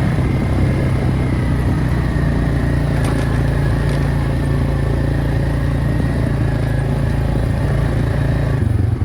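Four-wheeler (ATV) engine running steadily while riding.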